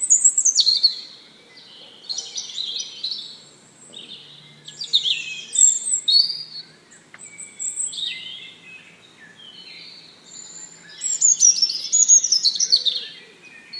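Small birds chirping in about five bouts of quick, high notes that sweep downward, with short quieter gaps between the bouts.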